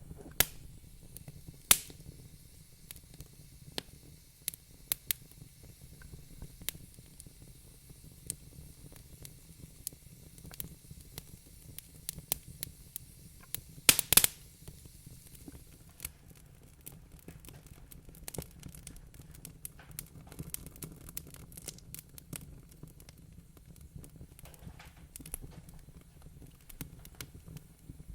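Wood fire crackling in a fireplace: irregular sharp pops and snaps, with a louder burst of pops about halfway through, over a steady low rumble.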